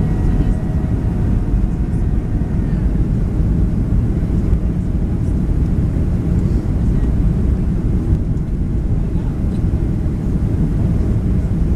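Steady cabin noise inside a Boeing 737-700: a continuous low rumble of its CFM56 engines and rushing air, with faint steady engine tones that fade out early on.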